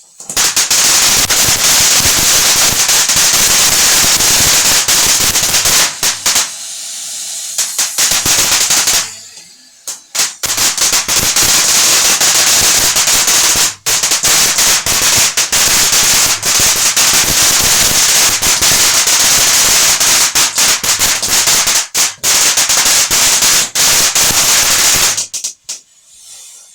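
Ground firework going off: a long run of rapid, loud cracks and bangs, easing into a hiss about six seconds in, breaking off briefly near ten seconds, then cracking again until it stops about twenty-five seconds in.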